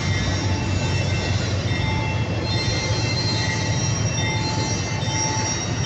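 Loaded freight train, its steel wheels squealing in thin high tones that come and go over a steady low rumble.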